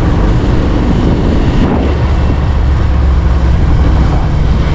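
Bajaj Pulsar 150 motorcycle's single-cylinder engine running steadily at low road speed, heard from the rider's seat, with wind rushing over the microphone. The engine note shifts slightly about two seconds in.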